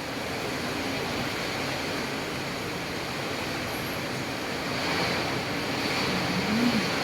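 Rain falling in a strong wind: a steady, dense hiss that swells slightly after about five seconds.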